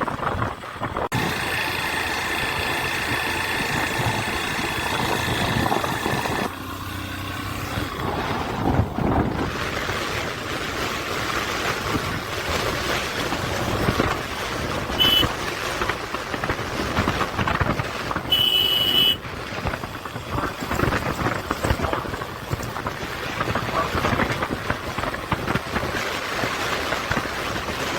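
Riding on a Honda Shine motorcycle: a steady rush of wind and road noise on the action camera's microphone, with the engine underneath. A steady high tone sounds for a few seconds near the start, and two short high beeps come about halfway through.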